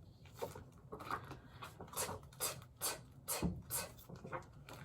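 Faint, irregular taps and scratchy rubs, about a dozen, from hands working at a desk, with one slightly heavier knock about three and a half seconds in.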